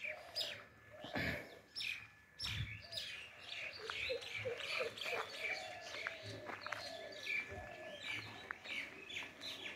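Several birds chirping and calling in quick, overlapping short notes, with a run of lower repeated calls in the middle.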